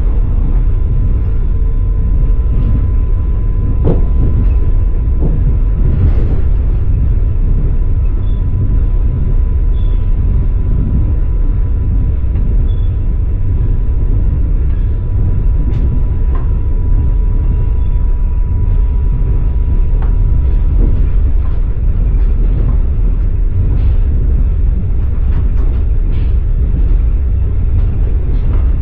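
Passenger train carriage running along the track, heard from inside: a steady low rumble of the wheels on the rails with irregular knocks now and then. A faint steady high tone sounds over it and stops about two-thirds of the way through.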